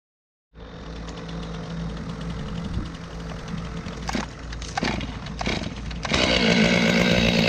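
Stihl MS 500i two-stroke chainsaw, just repaired, running steadily at idle, with a few sharp clicks between four and five and a half seconds in; about six seconds in it gets louder as it is throttled up.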